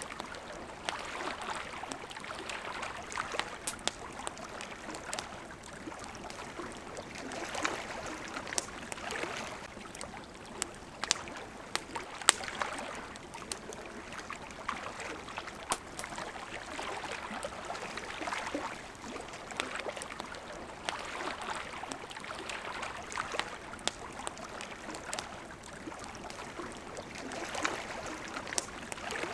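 Small waves lapping in gentle swells every couple of seconds, with a wood campfire crackling over them in scattered sharp pops, the loudest about twelve seconds in.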